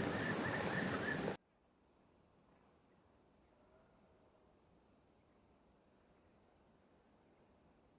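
Steady high-pitched insect chorus, like crickets, over outdoor ambience. It drops abruptly to a fainter insect drone about a second and a half in.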